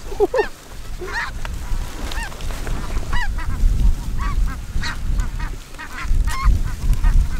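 Snow geese calling over decoys: many short, high honks overlapping throughout, with wind buffeting the microphone underneath.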